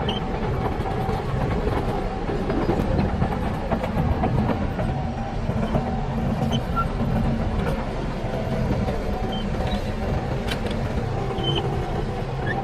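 Heavy diesel engine of a Shantui DH17C bulldozer running steadily at a constant pitch, with a few faint ticks over it.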